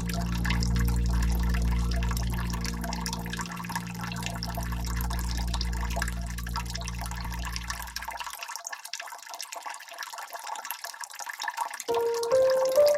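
Water dripping and trickling over a soft sustained low musical drone that stops about eight seconds in; near the end a few notes rise one after another.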